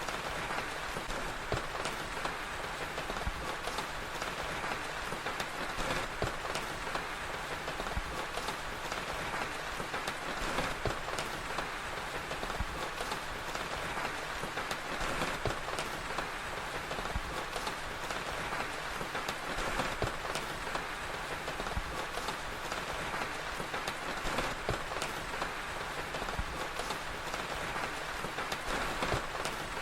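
Steady rain mixed with a crackling fire: an even hiss of rain with many small, sharp crackles scattered all through it.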